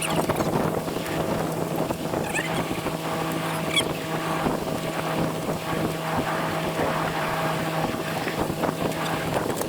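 Boat engine running with a steady hum, under wind on the microphone and the wash of water.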